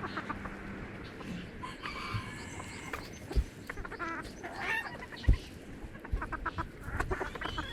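Chickens clucking in a series of short calls, with a couple of sharp knocks in the middle.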